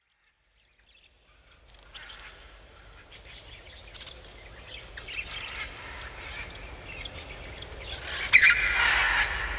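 Birds chirping, a scatter of short high calls that fades in about a second in, with a louder burst of chirping about eight seconds in, over a low rumble.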